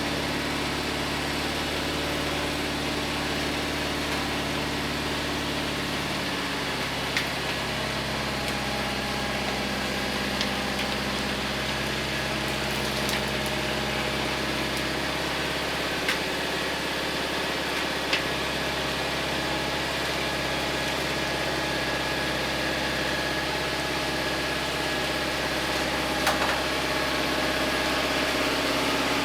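A vehicle engine idling steadily, its pitch shifting slightly a couple of times, with a few light clicks and knocks over it.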